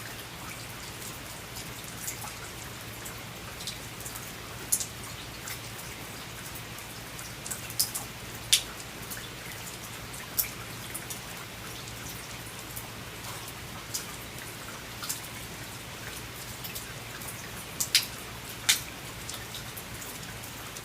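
Rain falling on a veranda: a steady patter with single drops landing in irregular sharp clicks, a few of them much louder than the rest, over a faint low steady hum.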